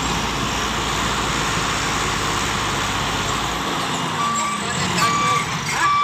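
Heavy vehicle engine running with a low rumble that falls away a little past halfway, then a reversing beeper starts, sounding a steady beep a little more than once a second.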